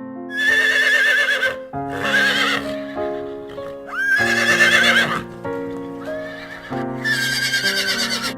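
A horse neighing four times, each a wavering whinny of about a second, over gentle electric piano music.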